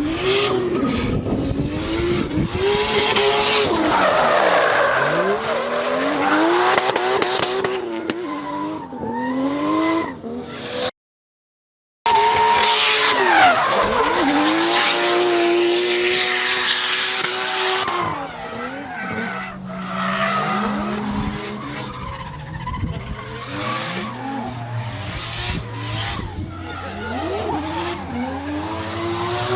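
Drift car's engine revving hard, its pitch climbing and falling again and again, with tyres squealing through the slides. The sound drops out for about a second near the middle, and later the engine settles to a lower, steadier note.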